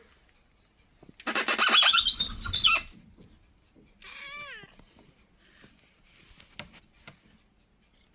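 A cat's loud, harsh, drawn-out cry lasting nearly two seconds, followed about four seconds in by a shorter meow that bends in pitch.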